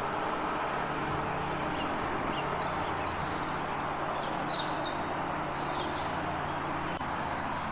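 Small birds chirping in short high calls through the middle, over a steady background rush with a low hum.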